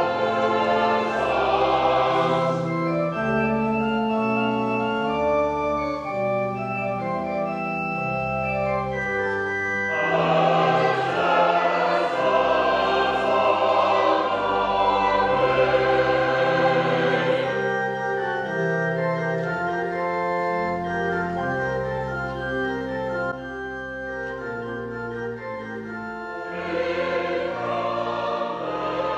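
Organ playing slow, sustained chords over a moving bass line: the postlude that closes the church service.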